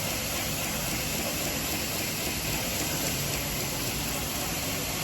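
Belt grinder running with a 120-grit belt, grinding the edge of a stainless steel cleaver as a steady, even hiss.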